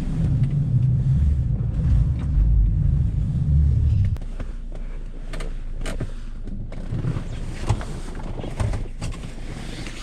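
Car engine running with a low rumble, cut off abruptly about four seconds in, followed by scattered clicks and knocks.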